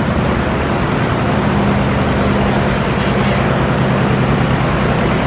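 Tractor engine running steadily, a low engine drone whose pitch steps up slightly about a second in.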